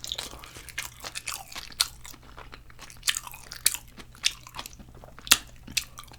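A person chewing a mouthful of kimchi fried rice close to the microphone: irregular wet clicks and small crunches, with one sharper click about five seconds in.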